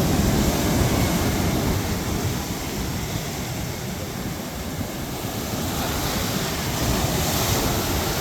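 Wind buffeting the phone's microphone with a low rumble, over the steady wash of ocean surf on the beach.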